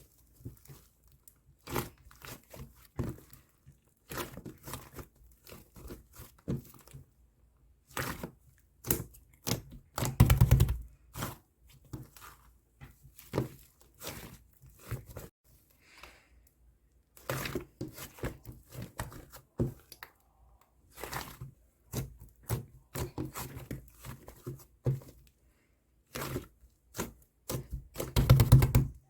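Close, irregular crackling, crunching and tearing sounds in short bursts, with two louder, heavier bursts about ten seconds in and near the end.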